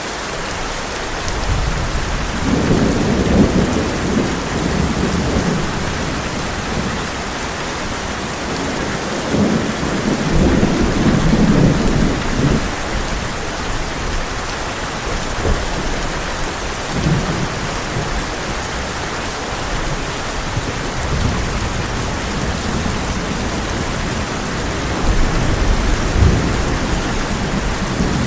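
Heavy rain drumming steadily on a tin roof, with rolling thunder rumbling three times: a few seconds in, about ten seconds in, and near the end.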